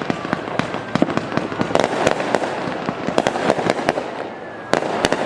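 Fireworks going off: many sharp pops and crackles in quick, irregular succession, with a louder cluster of bangs a little before the end.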